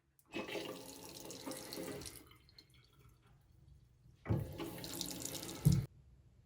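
Water running from a tap in two bursts of about two seconds each, turned on and off abruptly. A low thump comes just as the second burst stops.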